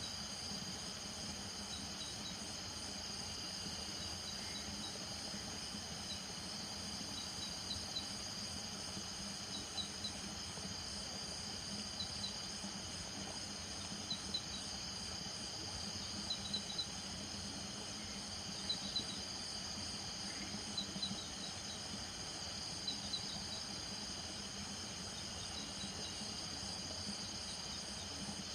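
Night chorus of crickets and frogs: a steady high insect trill, with short clusters of two or three quick high calls repeating about every two seconds.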